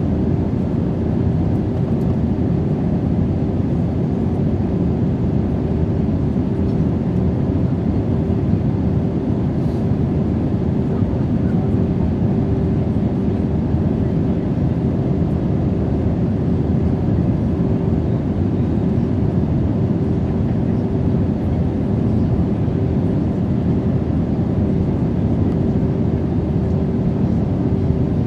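Steady cabin noise of an Airbus A320neo in flight: the rush of engines and airflow, with a steady mid-pitched hum.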